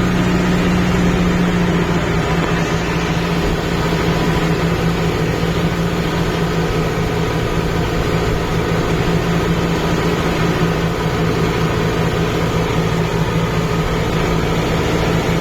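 Kubota MU5502 tractor's four-cylinder diesel engine running at a steady, unchanging speed.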